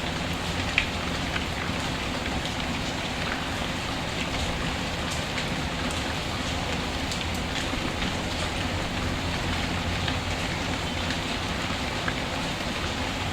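Steady rain falling, with scattered short sharp ticks and one louder pop about a second in.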